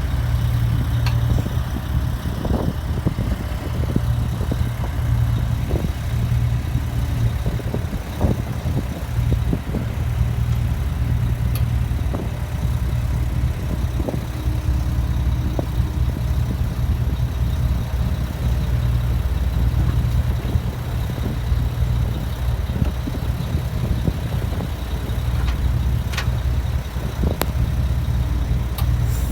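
Heavy earthmoving equipment engine running steadily with a deep hum, with scattered short knocks and clanks.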